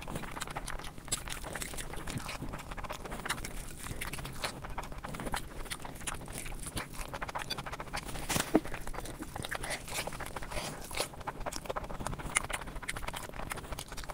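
Close-miked eating: chewing and mouth smacking, with frequent short clicks and crackles and one louder snap about eight and a half seconds in.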